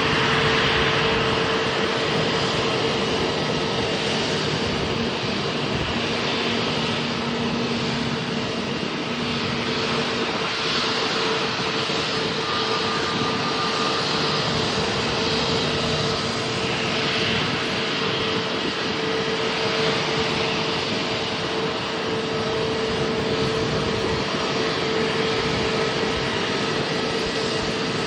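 Airliner engines running at the airport: a loud, steady rushing noise with a constant hum held through it, neither rising nor falling.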